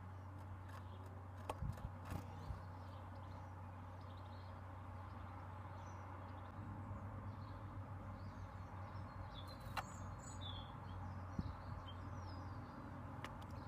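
Birds on a garden bird table: a few sharp taps on the table surface, with faint chirps from small birds about ten seconds in, over a steady low hum.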